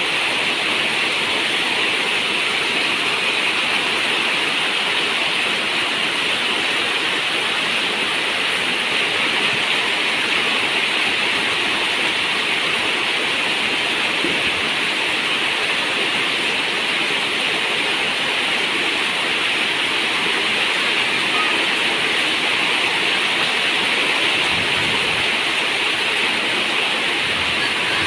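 Steady rain falling on a zinc roof: a dense, even hiss with no single drops standing out.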